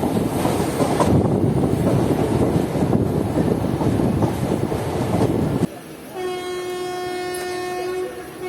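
A train running over the rails, a loud steady rumble with wheel clatter, which stops abruptly just before six seconds in. Then a train horn sounds one long steady blast of about two seconds, followed near the end by a short second note.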